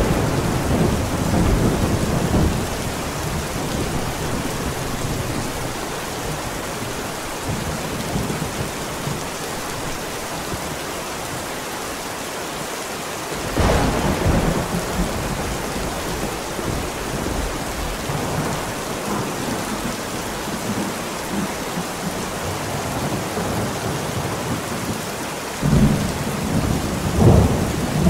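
Heavy rain falling steadily through a thunderstorm. A roll of thunder dies away in the first couple of seconds, a sudden clap about halfway through rolls on for a few seconds, and another rumble swells near the end.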